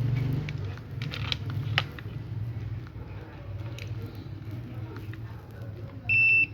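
A few light clicks and handling taps over a steady low hum, then near the end a digital multimeter starts a loud, steady high-pitched beep, with one brief break, as its probes go on the terminals of the good PTC relay (about 20 ohms).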